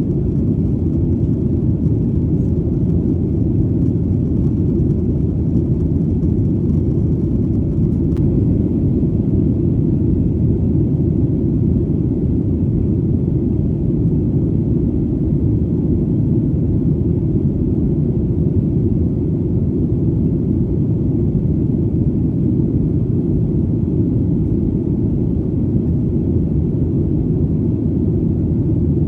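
Steady, deep airplane engine drone, an even rumble with no change in pitch or level.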